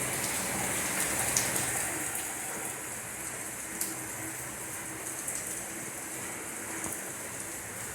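Steady high hiss with a few scattered faint ticks.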